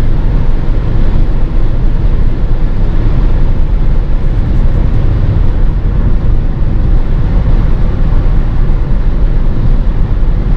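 2016 VW Passat at high speed: a loud, steady rumble of road and wind noise mixed with the engine, with no clear rise or fall in pitch.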